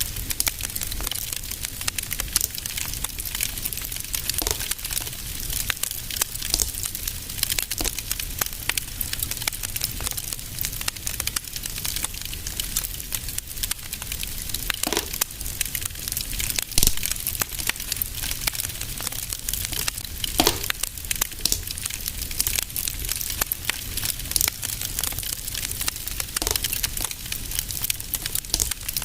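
Fire burning in a fireplace, crackling continuously over a steady low rumble, with a few louder pops scattered through.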